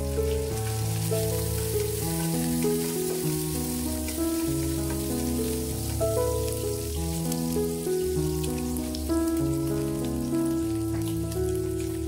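Dried anchovies sizzling as they fry in hot oil in a wok. Over it plays background music, a melody of held notes with a bass line.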